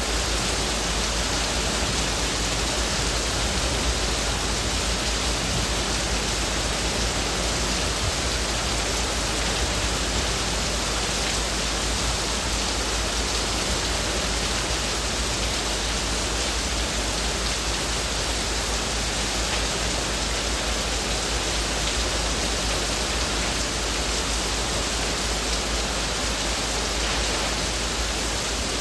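Heavy rain falling on leaves, an even, steady hiss with no single drops standing out.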